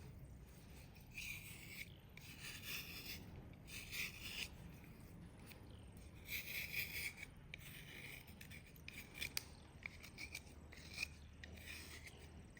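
Wet black slate pieces being crushed and ground, in irregular bursts of gritty, rasping crunching with a few sharp cracks.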